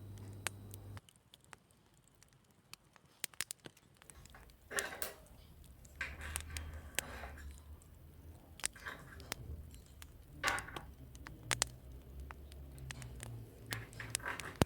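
Small household handling sounds: scattered sharp clicks and taps, with short scraping or rustling bursts every second or two over a low hum. A steady hum cuts off about a second in.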